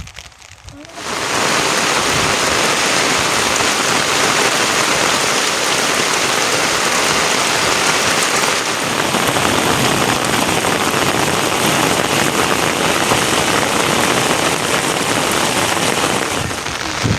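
Heavy rain falling steadily, a dense even hiss that starts abruptly about a second in.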